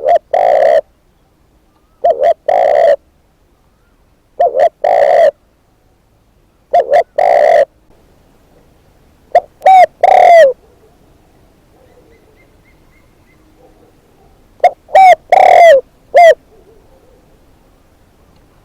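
Spotted dove cooing close by: six phrases, each one or two short coos followed by a longer one, with a longer pause between the fifth and sixth phrases.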